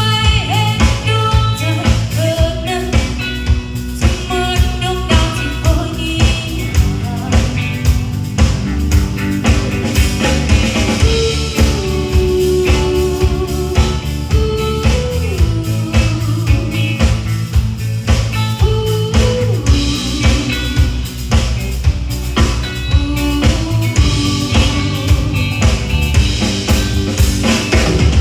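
Live band music: a drum kit keeps a steady beat under bass and guitar, with a melody line gliding on top.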